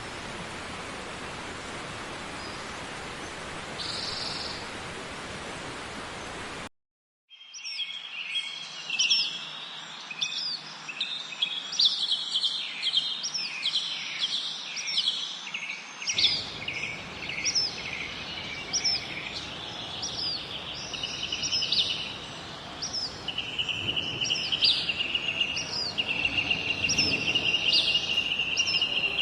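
A steady even hiss for the first several seconds, which cuts off abruptly. After a brief gap, small birds call rapidly and repeatedly with short high chirps and trills.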